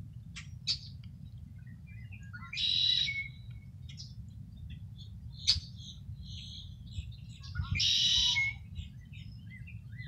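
Wild birds calling in the mangroves: two loud, harsh, buzzy calls about five seconds apart, with short chirps and ticks scattered between, over a steady low rumble.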